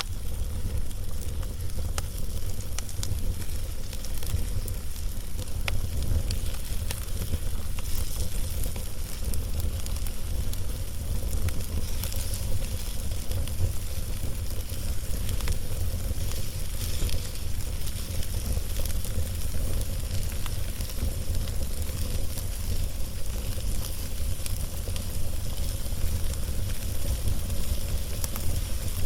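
Wood fire burning on a log, with scattered sharp crackles and pops over a steady low rumble.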